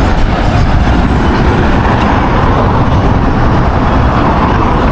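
Loud, steady street traffic noise: vehicle engines and tyres with a deep rumble and no single event standing out.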